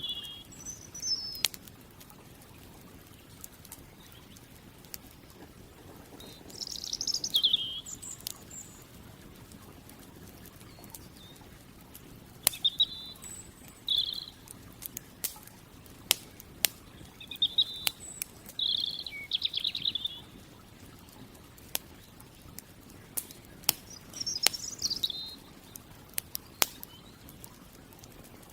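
Songbirds singing short chirping phrases every few seconds, over the scattered sharp pops and crackles of a campfire.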